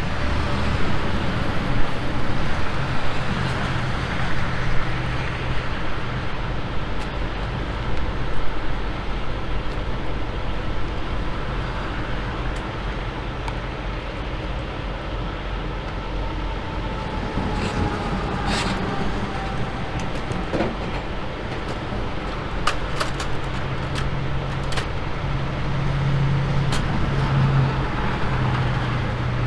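Heavy truck engine running steadily with a low hum. A faint falling whine passes about two-thirds of the way through, and a few brief clicks sound near the end.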